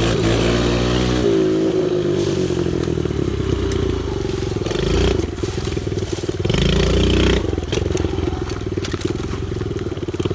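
Pit bike engine running while being ridden on a dirt track, its pitch rising and falling as the throttle is opened and closed. It backs off about a second in and picks up again past the halfway point, with a few sharp clacks near the end.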